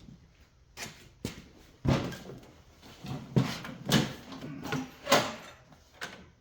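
Around ten irregular knocks and clunks, some sharp and some duller, as of hard objects being handled and set down.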